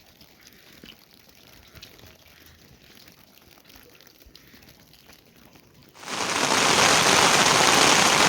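Faint scattered ticks, then about six seconds in, a loud steady rush of heavy rain starts suddenly.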